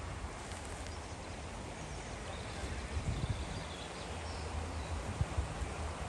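Outdoor background noise with a low wind rumble on the microphone and a few soft thumps, about three and five seconds in.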